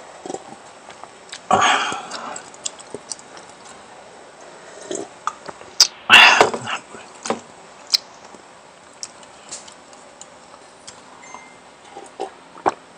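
Close-miked eating sounds: chewing, with scattered clicks of utensils on a plate. Two louder, noisy bursts come about 1.5 s and 6 s in.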